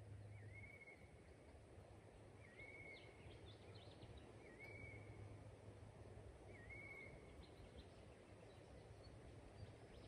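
Faint birdsong: one bird repeats a short whistle, a quick dip then a held note, about every two seconds, with a few faint chirps from other birds in between.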